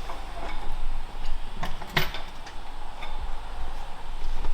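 A few scattered short knocks and clicks of metal tools and parts being handled during an engine removal, the loudest about two seconds in, over a steady low hum.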